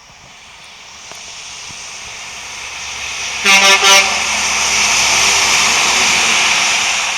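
Semi tractor-trailer approaching and passing, its road noise swelling and then starting to fade. A horn gives two short blasts about halfway through.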